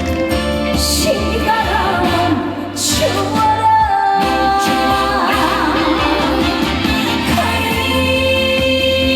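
Live Korean trot song: a female singer holding wavering notes over amplified band accompaniment.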